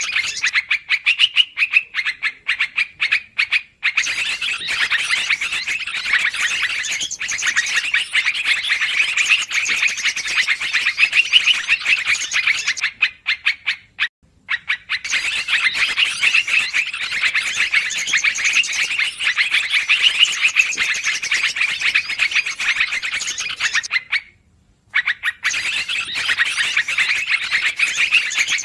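Yellow-vented bulbuls (trucukan) calling in a noisy, continuous chatter of short quick notes, played as a bird-trapping lure call; the chatter breaks off briefly twice.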